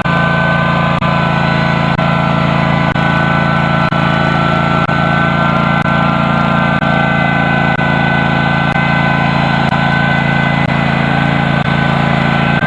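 Custom John Deere garden tractor's engine running steadily, its hum unchanging throughout.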